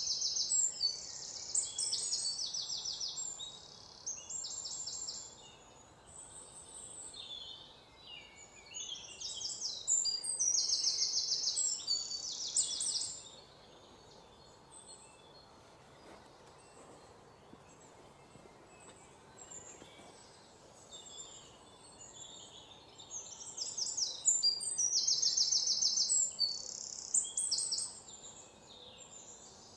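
Small songbirds chirping in quick, high, repeated trills, in three bouts of a few seconds each: at the start, about ten seconds in, and near the end, over a faint steady background hiss.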